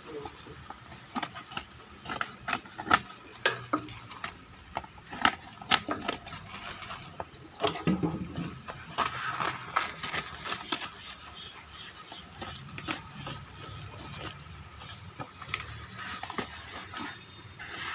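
Irregular clicks, knocks and scraping from objects being handled, over a faint steady hum.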